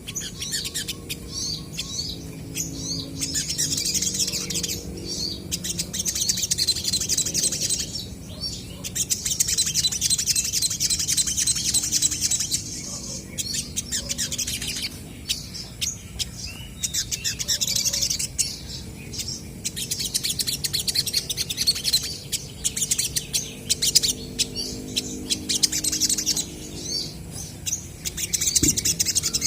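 Olive-backed sunbirds chirping and twittering fast and high-pitched, in bouts of a few seconds, calling back and forth with one another.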